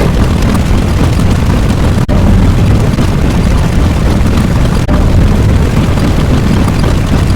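Loud, continuous deep rumbling sound effect, like a long explosion or eruption, with two brief drop-outs about two and five seconds in.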